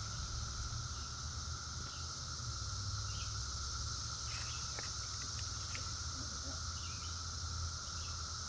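A dense chorus of periodical cicadas: a steady, unbroken droning hum with a higher hiss above it, and a low rumble underneath.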